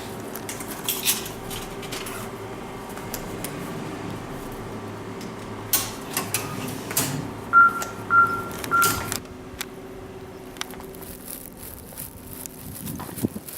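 A station IC-card fare reader beeping three short times at one high pitch past the middle, over a steady electrical hum and scattered clicks.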